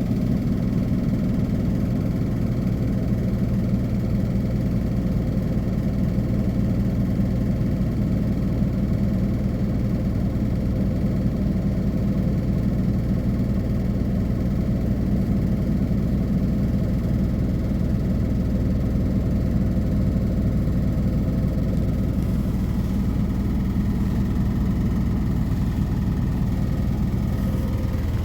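Hino Poncho bus's diesel engine, heard from inside the cabin, idling steadily with a constant low hum. Its tone shifts near the end.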